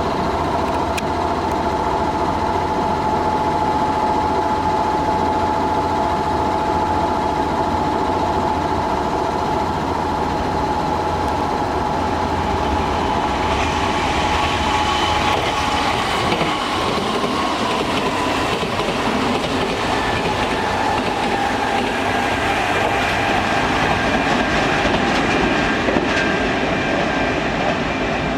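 Kintetsu Minami-Osaka Line electric train at a station. It is running with a steady mechanical whine whose tones change pitch about halfway through.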